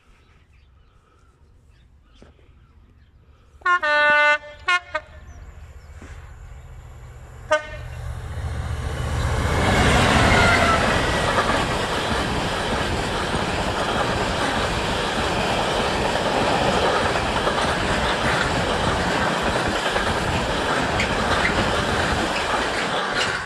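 Freightliner Class 66 diesel locomotive (EMD two-stroke V12) sounding its horn on approach: one blast about four seconds in, two short toots right after, and another short toot a few seconds later. The train then passes, loudest as the locomotive goes by about ten seconds in, followed by a long steady rumble and clatter of the engineering train's open wagons.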